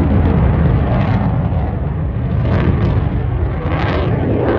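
Eurofighter Typhoon FGR4's twin EJ200 jet engines heard loud as the jet flies a display pass, a heavy, rough rumble of jet noise that swells and crackles without a break.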